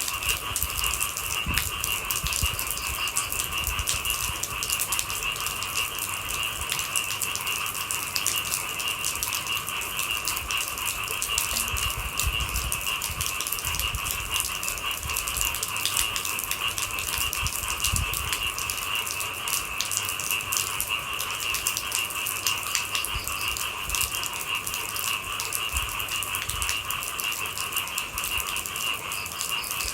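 Rain falling steadily in dense, pattering drops, over a continuous high-pitched chorus of night animals in two steady pitches.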